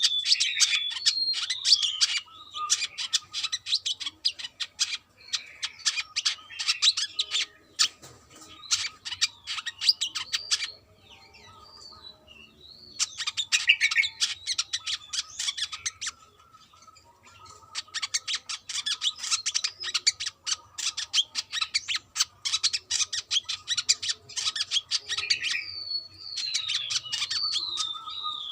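Brown-throated sunbird singing: long bursts of rapid, sharp chirping notes mixed with wavering high whistles, broken by a couple of short pauses.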